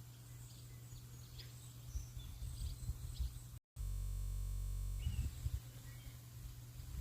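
Rain-and-birdsong ambience: a steady hiss with scattered short bird chirps and low thumps. About halfway through, the sound cuts out for an instant, then a steady low buzz lasts for about a second before the ambience resumes.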